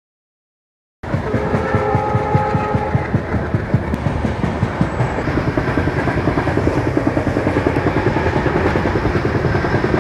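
After about a second of silence, the running noise of a moving express train cuts in: a fast, even clickety-clack of wheels over rail joints with steady rushing noise, heard from an open coach door. Near the start a steady multi-tone train horn sounds for about a second and a half.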